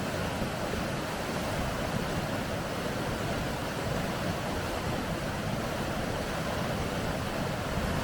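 Rapids rushing: a steady, even roar of water.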